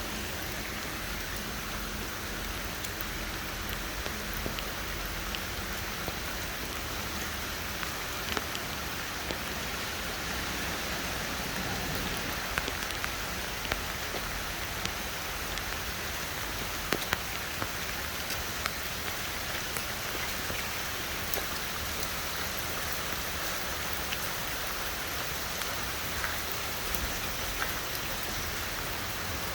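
Steady rain falling, with scattered sharp drops tapping on nearby hard surfaces.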